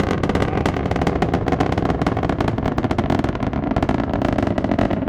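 Space Shuttle Discovery's launch roar: a steady low rumble shot through with dense, rapid crackling from its solid rocket boosters and main engines during ascent.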